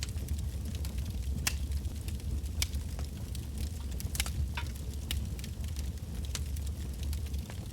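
Wood bonfire burning, with sharp crackles and pops at irregular intervals over a steady low rumble of the flames.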